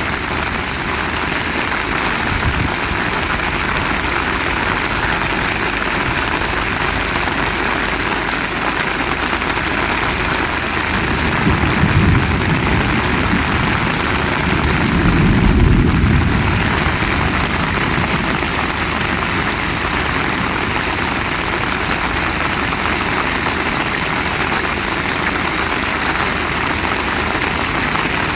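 Heavy rain falling in a steady downpour. A low rumble swells twice near the middle.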